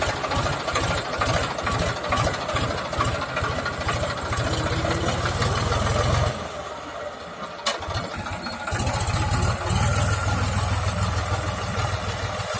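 Tractor diesel engine running with a steady low firing beat. A little past the middle it drops away for about two seconds, with one sharp click, then comes back.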